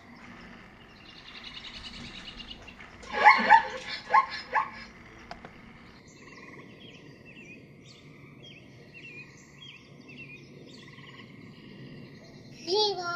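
Zebras barking: a quick series of loud, barking calls about three seconds in. From about halfway, birds chirping in short repeated notes over a steady high hum, with a short call falling in pitch near the end.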